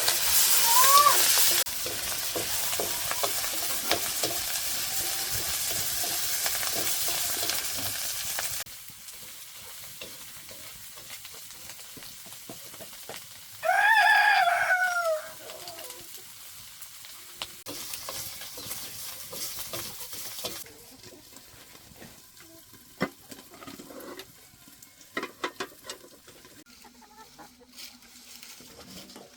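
A rooster crows once, loud and drawn out, about halfway through, with a short chicken call near the start. A steady hiss fills the first third, and scattered small clicks and taps follow later.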